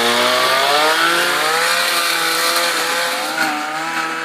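Chainsaw engine running at high throttle. Its pitch climbs in the first second as it revs up, then holds roughly steady with a slight waver.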